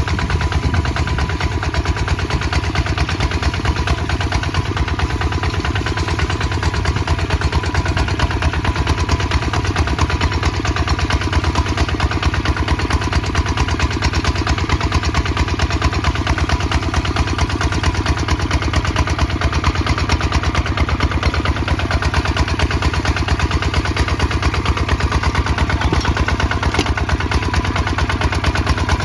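Kubota ZT155 DI single-cylinder diesel tractor engine running steadily under plowing load, a rapid, even chugging of firing pulses.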